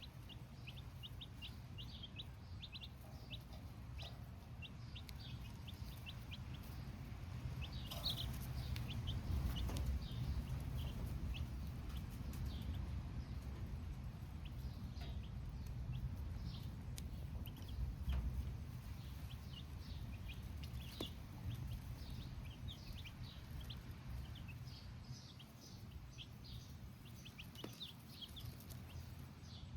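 A brood of baby chicks cheeping, many short high peeps overlapping, busiest about a third of the way in, over a low steady rumble.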